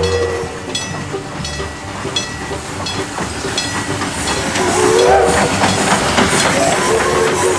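Steam locomotive working, its exhaust beats coming evenly about two a second, then a louder rush of steam hiss from about halfway through. A low steam whistle sounds near the end.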